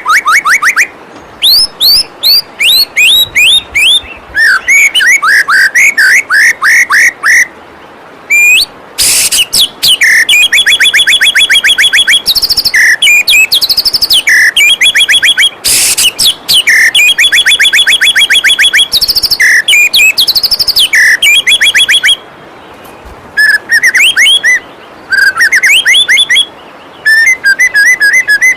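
White-rumped shama singing loud phrases of rapidly repeated whistled notes, quick downward slurs and fast trills, broken by short pauses, over a steady rush of flowing water.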